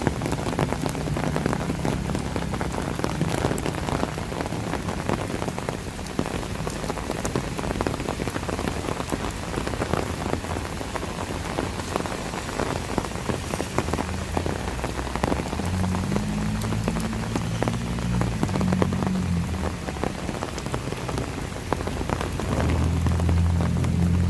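Steady rain falling, with many close drop impacts. A low hum rises under it twice, about two-thirds of the way through and again near the end.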